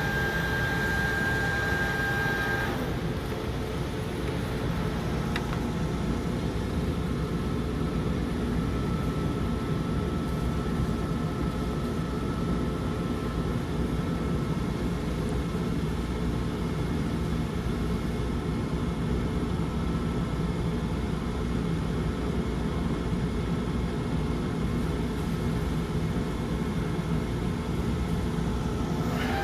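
Dörries Scharmann VL4600/400 CNC vertical turning lathe running with a steady, low machine hum. A high steady whine sits over it for the first couple of seconds and then stops, and a fainter whine follows for several seconds.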